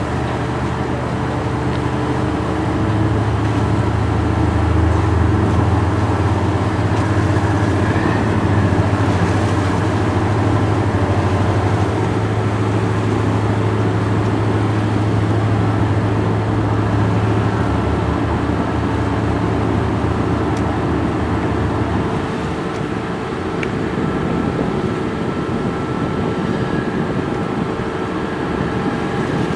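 Boat engine running with a steady low drone that drops away about 22 seconds in, leaving a lighter running noise.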